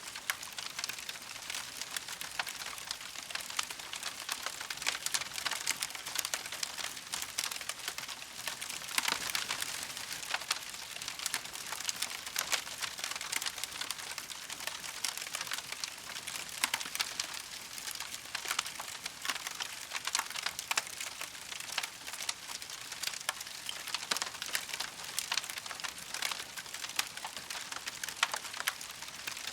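Wood campfire crackling steadily, a dense run of small pops and snaps over a soft hiss.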